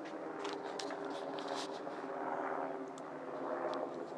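Helicopter flying past at a distance: a steady drone with a few held tones that swells and eases, and a scattering of sharp clicks in the first two seconds.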